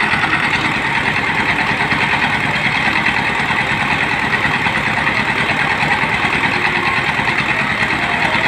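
Engine of a water-well drilling rig running steadily at a constant speed.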